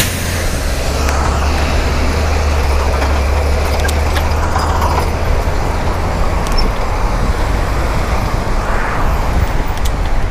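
Wind rumbling over a cyclist's camera microphone while riding, mixed with the noise of passing road traffic; the low rumble is heaviest for the first five seconds or so.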